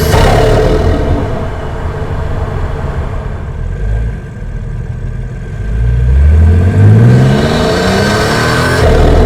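Turbocharged Toyota Supra with an Armaspeed intake being driven hard: the engine note climbs steadily from about five and a half seconds in. At each lift off the throttle, at the start and again near the end, the turbo lets out a loud flutter and whoosh.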